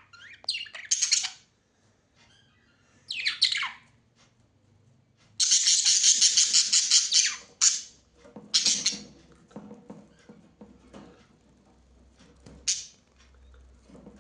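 Birds giving a series of short, harsh squawks, with one long harsh call made of rapid pulses lasting about two seconds, starting about five seconds in.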